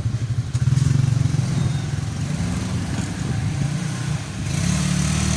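A motor vehicle engine running, a pulsing low rumble that swells about a second in and again near the end, with added hiss near the end.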